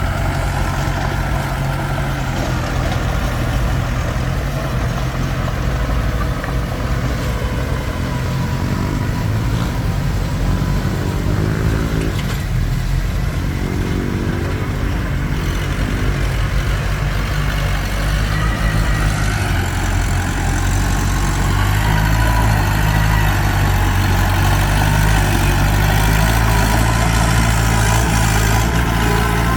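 Komatsu D21P crawler bulldozer's diesel engine running steadily under work, growing somewhat louder about two-thirds of the way through.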